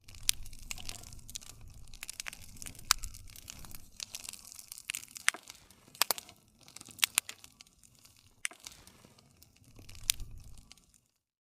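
Wood fire crackling: a string of sharp pops and snaps over a soft hiss. The sound cuts off abruptly about a second before the end.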